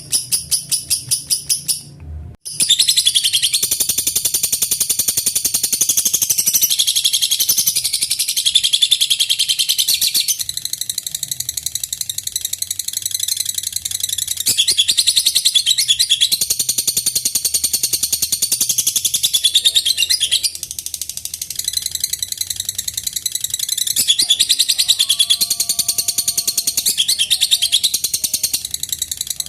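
Lovebird 'ngekek': a long unbroken stream of rapid, high, shrill chattering notes. It breaks off briefly about two seconds in, then resumes and runs on.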